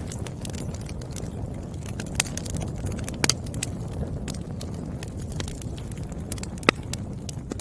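Wood fire crackling: a steady low rumble of burning logs with scattered sharp pops, the loudest near the end.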